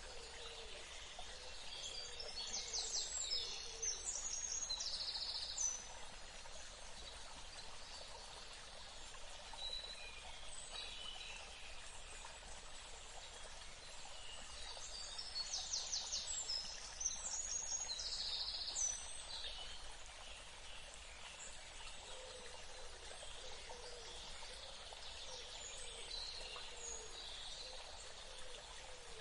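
Birds chirping and trilling over a steady background hiss of outdoor ambience. The calls come in two busier bursts, one a couple of seconds in and one about halfway through, with scattered single chirps between them.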